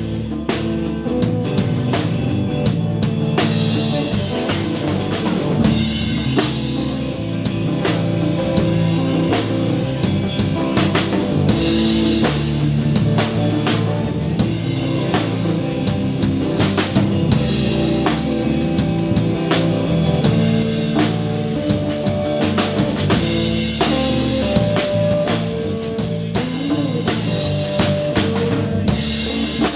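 Live blues-rock band playing an instrumental passage: electric guitar over bass and a drum kit with a steady beat, heard in the room.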